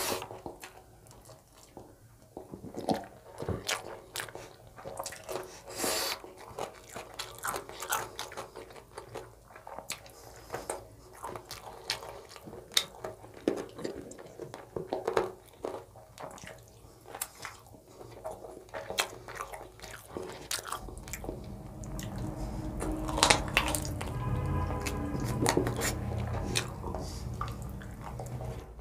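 Close-miked chewing and wet mouth sounds of a person eating rice and chicken curry by hand, with many scattered sharp smacks and clicks. About two-thirds of the way in, a low rumble comes in underneath.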